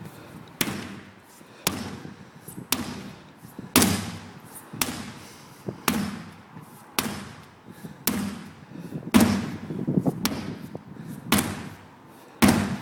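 Sledgehammer repeatedly striking a large rubber tyre, about one heavy thud a second, a dozen blows in a steady rhythm.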